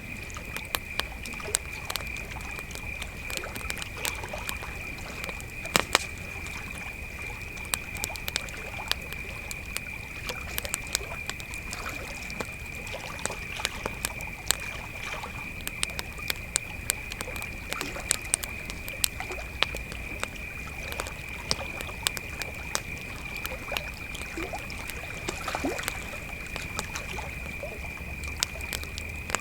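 Crickets trilling in a steady, unbroken high chorus while a campfire crackles and pops, with a few sharper, louder pops standing out.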